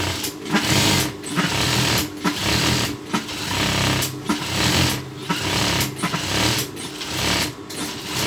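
Electric sewing machine stitching in short runs of about a second, with brief pauses between them as the fabric is guided along a seam.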